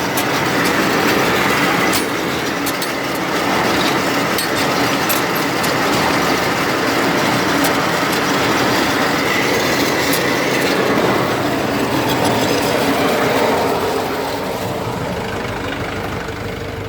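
Hay baler running to test its freshly repaired knotters: a steady mechanical clatter with sharp clicks scattered through it, growing a little quieter near the end.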